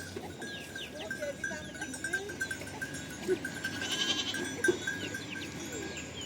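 Herd of goats and sheep bleating, many short calls overlapping.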